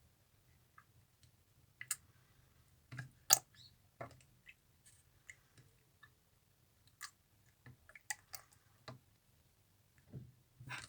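Slime being pressed and squeezed by hand, giving scattered small sticky clicks and pops, the loudest a little over three seconds in.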